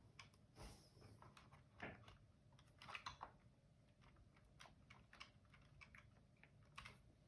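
Faint, scattered clicks and taps of small plastic parts and screws being handled while unscrewing a robot vacuum's side brush motor.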